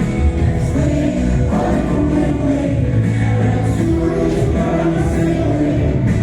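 A choir of young primary-school children singing a slow Ukrainian lullaby in unison, with sustained, held notes.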